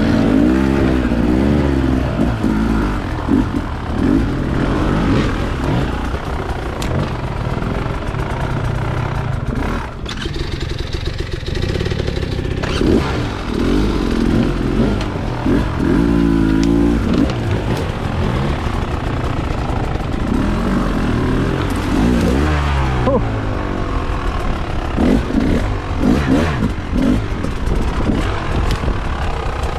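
Dirt bike engine revving up and down in short, uneven throttle bursts, as when picking a way slowly over rocks.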